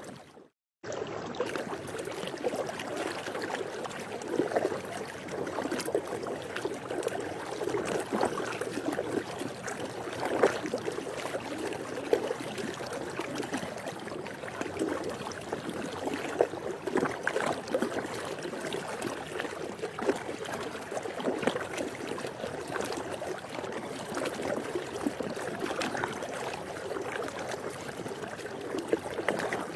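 Continuous swimming-pool water noise: moving water with many small irregular splashes and gurgles. It cuts out to silence for about half a second just after the start, then carries on.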